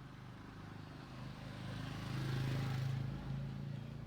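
A car passing by on the road: engine and tyre noise swell to a peak about two and a half seconds in, then fade, over a steady low traffic hum.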